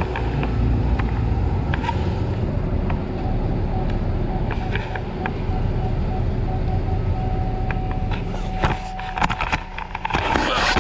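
A vehicle engine idles with a steady low rumble while metal clicks and knocks of handling come through, a flurry of them near the end. About halfway through, a thin high electronic tone starts, first pulsing rapidly and then held steady.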